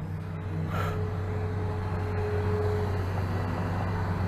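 Steady low rumble of a running vehicle engine, with a faint steady tone in the middle of it.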